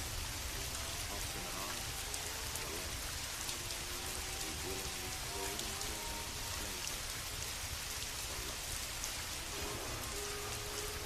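Steady rain falling, an even unbroken hiss, with faint soft held tones underneath.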